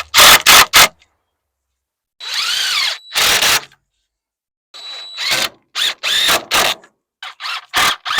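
Power drill run in a series of short trigger bursts, each one spinning up and winding down, with brief pauses between them.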